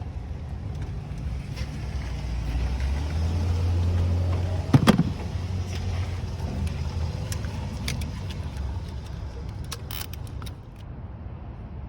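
Low vehicle rumble that swells for a few seconds and then fades, with a sharp click near the middle and a quick run of clicks near the end.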